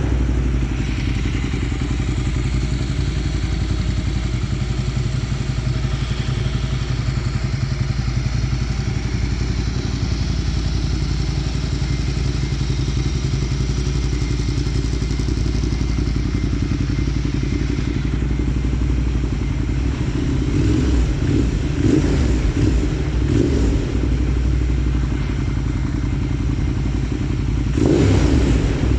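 Ducati Monster 1200S's 1198 cc Testastretta L-twin idling steadily as it warms up after a cold start. It grows briefly louder a few times in the second half and again near the end.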